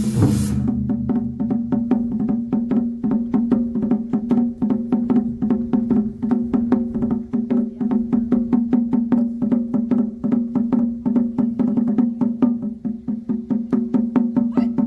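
Live percussion ensemble playing: a rapid, even run of sharp strikes, about four to five a second, over a steady pitched ring. A louder, fuller passage cuts off about half a second in.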